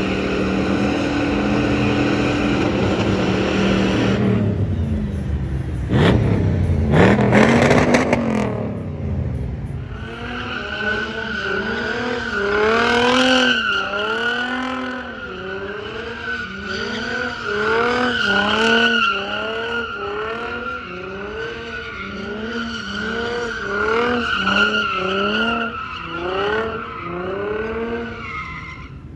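A car engine running, then revved hard, then revved up and down over and over, about once a second, over a steady high tyre squeal: a burnout.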